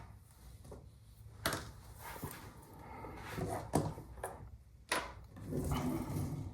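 Rifle parts being handled and fitted together on a bench: rubbing and scraping with a few sharp clicks and knocks.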